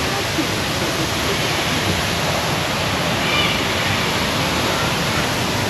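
Big waterfall pouring steadily, an even, constant rushing.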